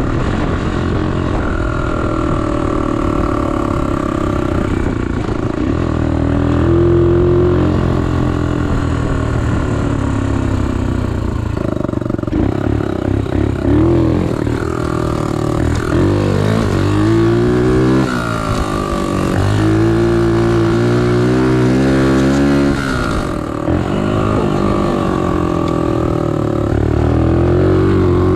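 Small 125cc pit bike engine revving up and down repeatedly while being ridden, its pitch climbing and dropping several times, with sharp climbs in the second half.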